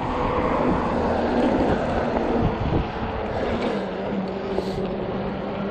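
Wind buffeting the microphone and tyre and road rush during a fat-tire e-bike ride, with a steady low hum joining about halfway through.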